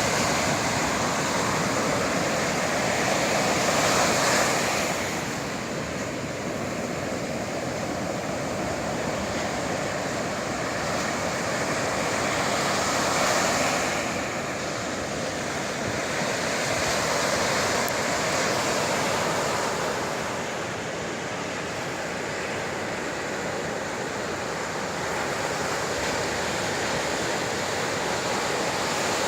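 Sea surf breaking on the shore: a steady rushing wash that swells and falls back, rising to a peak about four seconds in and again around thirteen seconds.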